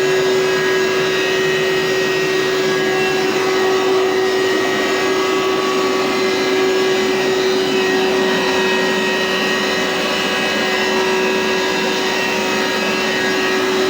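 Hoover SteamVac carpet cleaner running steadily, its motor giving a constant hum with an even whooshing noise.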